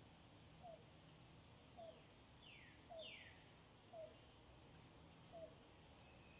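Faint wild bird calls: scattered short high chips and two falling whistled notes about two and three seconds in, over a soft low note repeating about once a second and a light background hiss.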